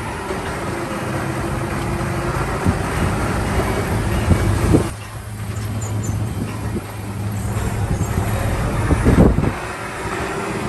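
Diesel engine of heavy earthmoving machinery running steadily under load, with two short louder surges, one about halfway through and one near the end.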